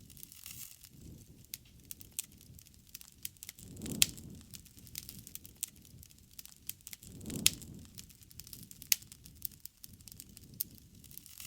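Wood fire crackling with a steady run of small snaps. Two louder pops, about four and seven seconds in, each come with a brief low rumble of flame.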